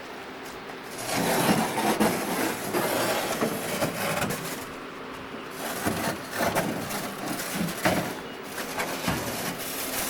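A small boat's hull scraping and rubbing as it is dragged along, in uneven strokes.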